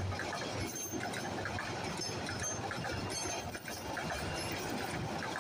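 Bangladesh Railway passenger train on the track: a steady rumble with scattered short clicks.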